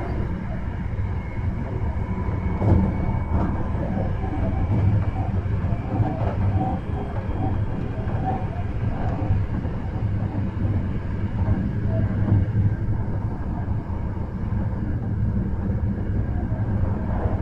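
Hankyu 1300 series electric commuter train running, heard from inside the car: a steady rumble of wheels on rail, with one sharp clack a few seconds in.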